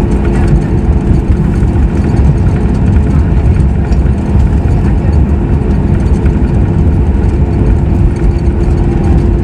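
Cabin noise of a Boeing 737 MAX 8 on the ground just after landing: its CFM LEAP-1B engines at idle give a steady hum over a loud low rumble.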